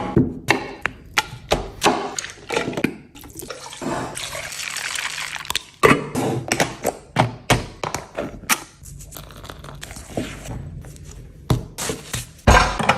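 Kitchen sounds: a string of sharp knocks and clatter from utensils and cookware, with water running for about two seconds a few seconds in.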